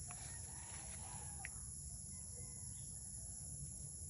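Steady high-pitched drone of a chorus of crickets or similar insects, with one brief bird chirp about a second and a half in and a low rumble of wind or handling underneath.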